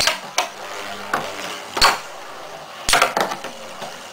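Spinning Beyblade tops, Cyclone Striker and Lightning L-Drago with metal fusion wheels, clashing in the stadium: a run of sharp metallic clicks, several in under a second near the start and again about three seconds in, over a steady scraping hiss of the tops spinning on the stadium floor.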